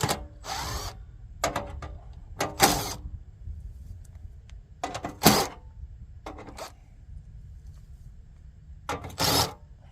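Short bursts from a power driver or other tools removing a side cover on a forced-air heater, about six times, each under a second.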